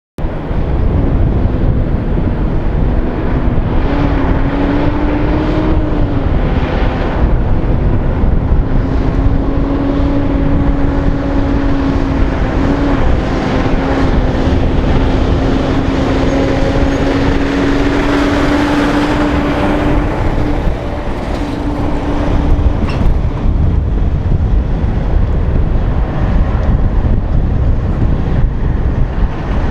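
Big-rig semi trucks driving past, a continuous rumble of diesel engines and tyres. One engine drone holds a steady note that rises slowly in pitch for about twenty seconds and then fades out.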